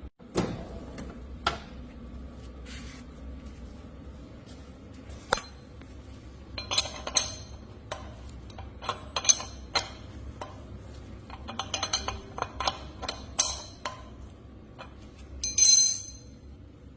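Metal tools and wheel-bearing parts clinking and tapping against each other at irregular intervals, with a longer ringing metallic clink near the end.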